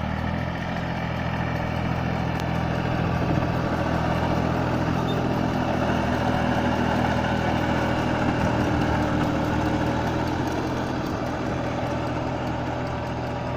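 Small tractor engine running steadily.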